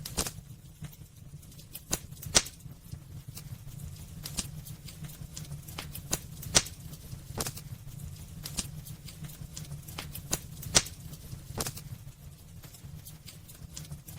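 Wood fire burning in a fireplace, with irregular crackles and a few sharp pops over a low steady rumble of the flames; the loudest pops come about two seconds in, near the middle and about three-quarters of the way through.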